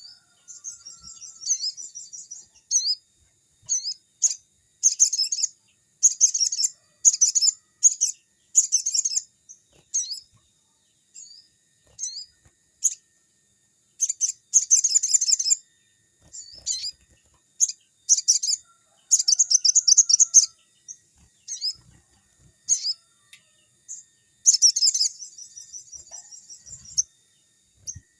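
A sogon songbird singing in full, constant song: very high-pitched, rapid chattering trills in bursts of a second or two, with short gaps and thin single notes between.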